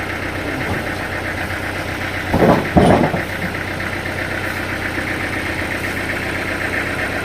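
Engine at a sawmill running steadily, with a brief louder burst of noise about two and a half seconds in.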